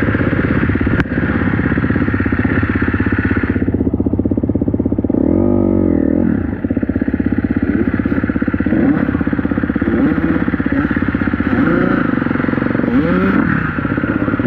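Dirt bike engine running, with a quick rev up and back down about five seconds in and a few smaller throttle blips later on. A sharp click sounds about a second in.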